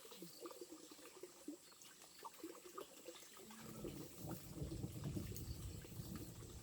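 Water running or being poured, faint at first with scattered small ticks, growing louder and fuller about halfway through.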